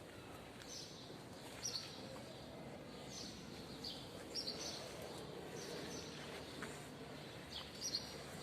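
Small birds chirping now and then, short high calls repeated about half a dozen times over a steady outdoor background hum.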